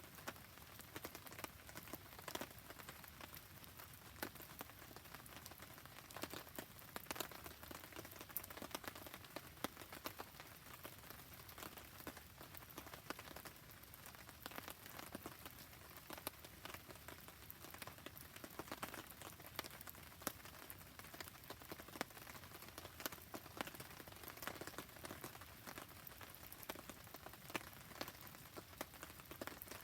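Steady rain falling with a wood campfire burning: a soft even hiss dotted throughout with many sharp ticks and pops from drops and crackling wood.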